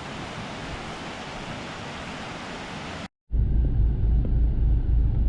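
Steady rushing of a flood-swollen river in rapids for about three seconds. Then a sudden cut to a louder, fluctuating low rumble.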